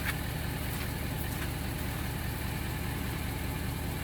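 Heavy-duty pickup truck engine idling steadily with a low, even rumble.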